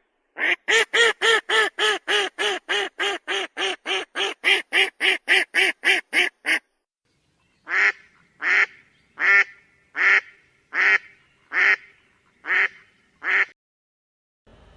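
A duck quacking in a quick run of about four quacks a second for some six seconds, then after a short pause a slower series of about eight quacks.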